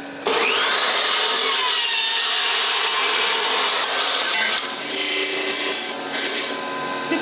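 Handheld power tool grinding metal, its high whine shifting in pitch with load, with two short breaks between passes.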